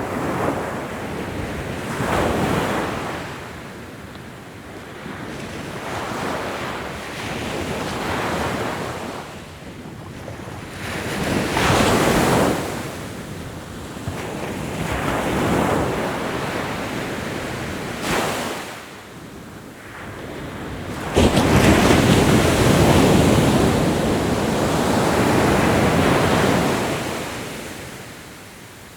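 Ocean waves breaking and washing on a shore, in repeated swells a couple of seconds apart. A larger wave comes in suddenly about two-thirds of the way through and is the loudest part, then ebbs away.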